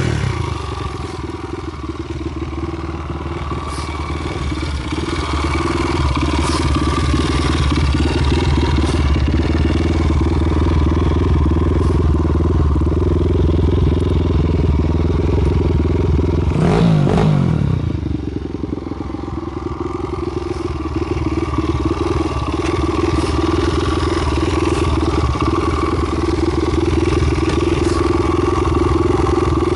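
Honda Monkey's Takegawa 124cc single-cylinder four-stroke idling steadily through a Yoshimura Cyclone up-muffler, with one quick throttle blip that rises and falls about two-thirds of the way through.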